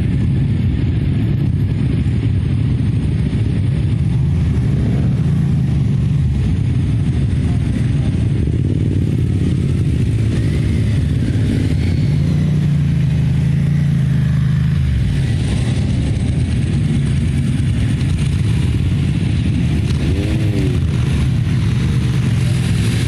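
Motorcycle engines running, a steady low sound with no clear breaks.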